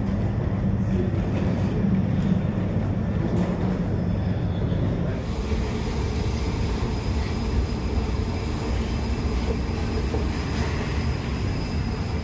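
Steady low rumble inside an Airbus A220-300 cabin on the ground. About halfway through, a higher hiss with a faint high tone joins in.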